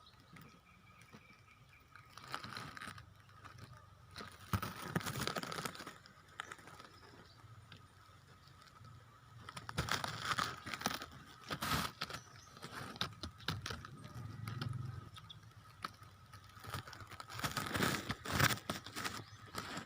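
Leaves and foliage rustling and crinkling in irregular bursts, as if being handled and pushed aside, over a faint steady high-pitched tone.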